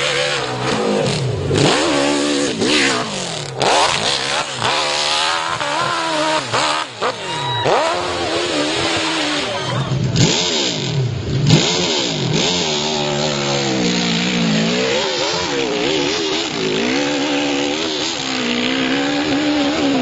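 Hill climb dirt-bike engine revving hard, its pitch sweeping up and down again and again as the throttle is worked on the climb.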